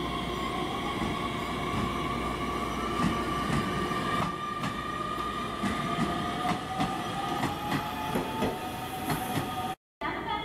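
Nishitetsu electric commuter train pulling away: its traction motors whine with a pitch that slowly rises as it gathers speed. The wheels click over the rail joints, the clicks coming closer together, and the sound cuts off suddenly near the end.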